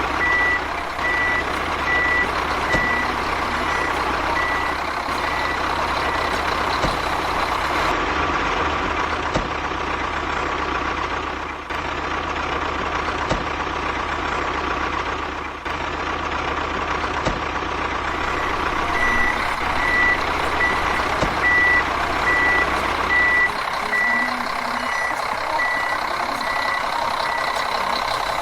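A truck's reversing alarm beeping steadily about twice a second over a continuous engine running; the beeping stops after about six seconds and starts again later on.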